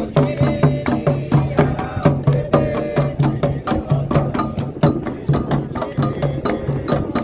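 Candomblé percussion: atabaque hand drums and other percussion played in a quick, steady rhythm of strikes.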